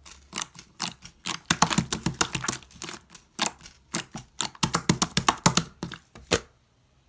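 Brown glitter slime being squeezed and pressed by hand, giving rapid, uneven crackling clicks and pops. The clicking stops about six and a half seconds in.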